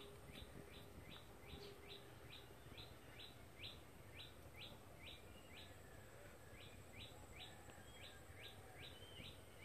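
Faint, steady string of short high chirps from a small bird, about two to three a second, over quiet outdoor background noise.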